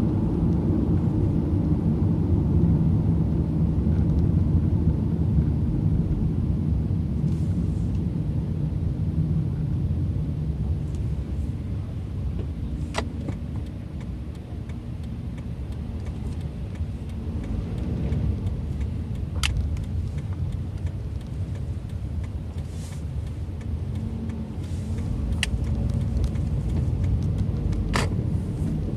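Car driving, heard from inside the cabin: a steady low rumble of engine and tyres that eases off about halfway and builds again near the end, with four sharp clicks or knocks.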